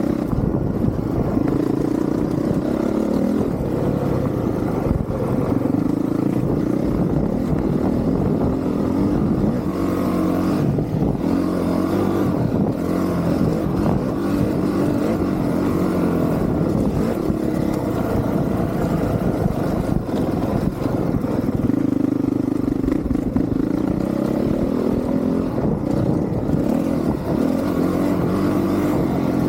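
Honda CRF450R's single-cylinder four-stroke engine being ridden hard, its revs rising and falling over and over as the throttle is worked.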